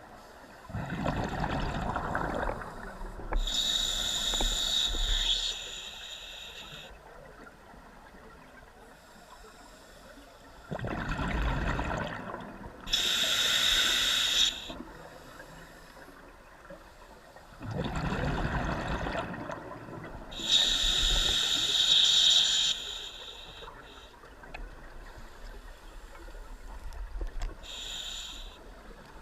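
Scuba diver breathing through a regulator underwater: three breaths, each a hissing inhale through the demand valve and a rush of exhaled bubbles.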